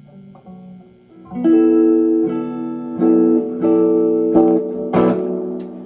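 Electric guitar played through a Pioneer SR-202W spring reverb tank and amplifier, picked up by a phone microphone: a few soft notes, then from about a second in loud strummed chords struck several times, each left ringing into the next.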